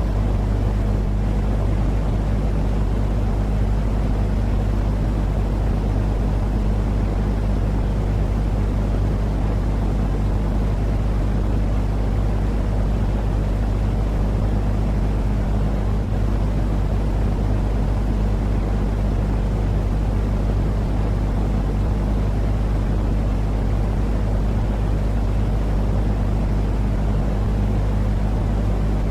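Steady, unbroken low rumbling noise with a constant hum underneath: a white-noise sleep track for babies, with no change in level or pattern.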